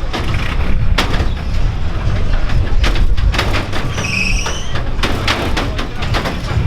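Vehicles running with a steady low rumble, broken by many sharp clicks and knocks. About four seconds in there is a short, high squeal that rises in pitch.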